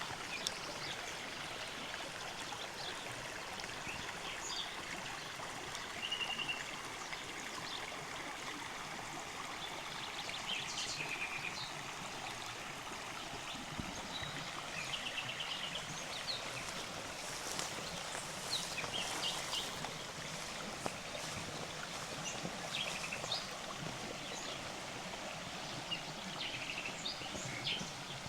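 River water running steadily over stones, with small birds chirping and trilling on and off throughout.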